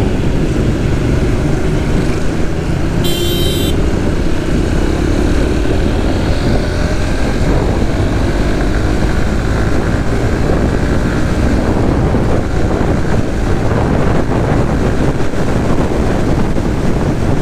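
Suzuki GSX-S150's single-cylinder engine running at road speed, with steady wind noise on the microphone; a short high-pitched beep about three seconds in.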